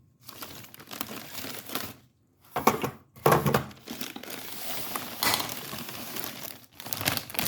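Plastic crinkling and rustling as items are handled, in several stretches broken by short pauses.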